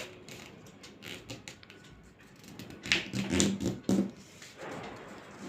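Sheet of paper being handled and folded by hand, with a string of crackles and light taps, loudest about three to four seconds in.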